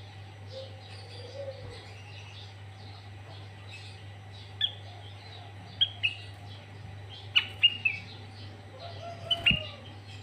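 Sooty-headed bulbul (kutilang) calling: a run of faint chirps with loud, sharp notes in clusters from about halfway, over a steady low hum.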